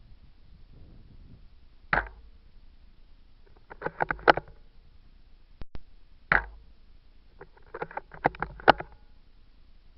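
Sharp knocks and clicks from a Tokyo Marui VSR-10 bolt-action spring airsoft rifle being handled, picked up through its scope-mounted camera: a single knock about two seconds in, a quick cluster of clicks, another single knock a little past the middle, then another cluster of clicks.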